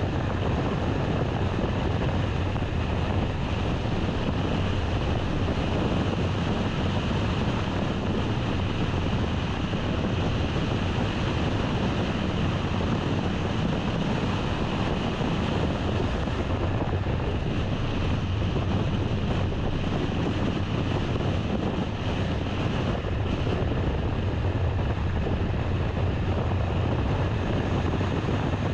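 Steady road and wind noise of a car driving: a constant low rumble with a hiss over it, unchanging throughout.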